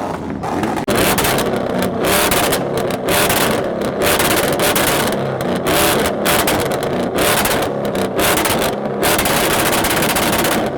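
A modified car's engine being revved hard over and over, in short loud blips with brief breaks between.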